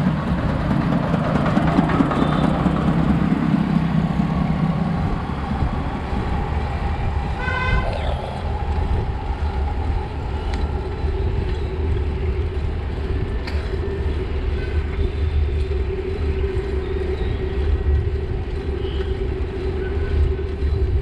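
City road traffic heard from a moving bicycle: a steady low rumble with a vehicle passing close in the first few seconds. A horn honks once, briefly, about seven and a half seconds in.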